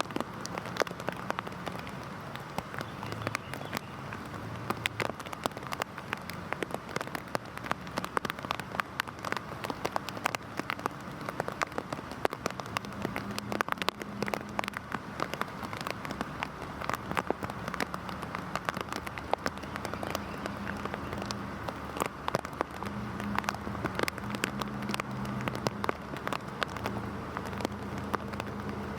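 Heavy rain falling steadily, with many separate drops ticking sharply on a hard surface over a dense, even hiss. A faint low hum sits underneath and grows a little stronger in the second half.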